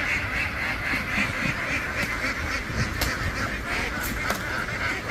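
A large flock of domestic ducks quacking continuously, many calls overlapping into a steady din, with a few sharp clicks about three and four seconds in.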